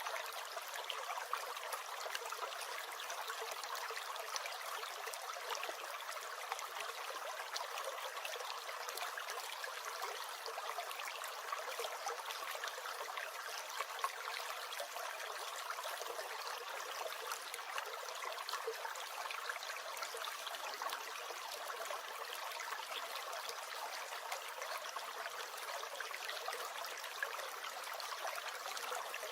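Small stream gurgling and trickling steadily, with no deep rumble.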